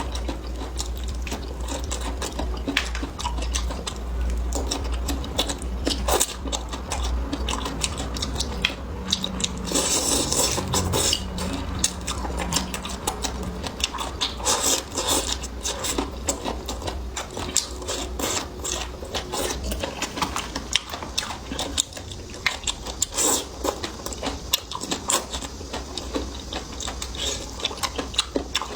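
Close-up chewing and crunching of fried food, a dense, irregular crackle of small clicks with the odd utensil clink, over a steady low hum.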